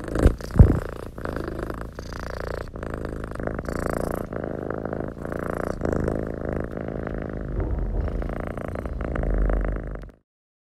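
A cat purring steadily close up, with two loud thumps in the first second; it cuts off suddenly shortly before the end.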